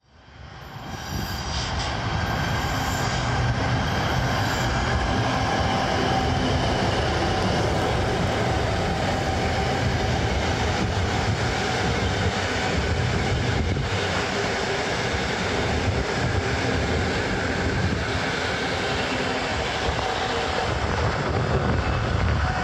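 Electric multiple-unit passenger train running along the track: a steady rumble of wheels on rail with a faint steady whine above it, fading in over the first couple of seconds.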